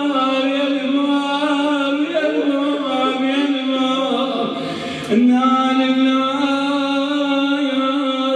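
A man's voice chanting an Arabic mourning lament (nai) in long, drawn-out wavering notes without clear words, with a break and a fresh held note about five seconds in.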